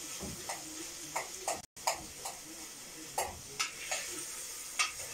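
Meat and onions sizzling as they fry in an aluminium pot, with a utensil scraping and knocking irregularly against the pot as they are stirred. The sound cuts out for an instant a little under two seconds in.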